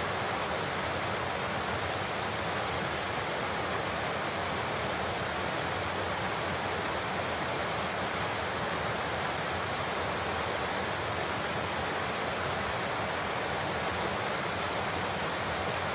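Large waterfall: a steady, dense rush of falling water.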